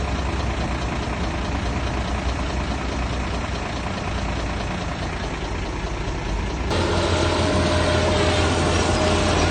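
Heavy diesel machinery engine running steadily; about two-thirds of the way through, the sound cuts abruptly to a louder engine with a steady whine.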